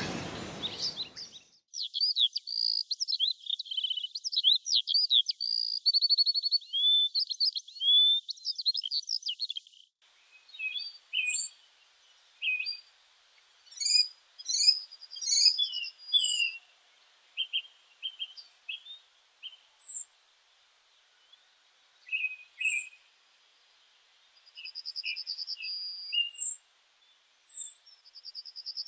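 Songbirds singing. A broad rushing noise fades out in the first second or so, then one bird sings a long, rapid warbling song for about eight seconds. After that come scattered chirps, thin high down-slurred notes and short buzzy trills with quiet gaps between them.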